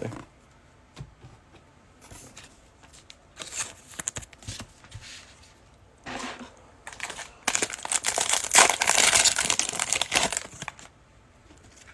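Foil wrapper of a Panini Mosaic football card pack being handled and torn open: a few short rustles, then a longer stretch of loud crinkling for about three seconds near the end.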